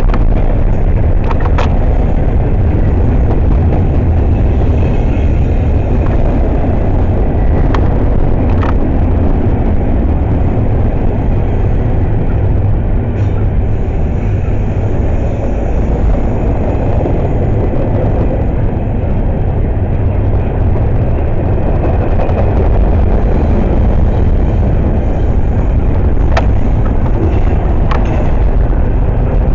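Freight train passing close at speed: a loud, steady rumble of the cars rolling on the rails, with a few sharp clicks.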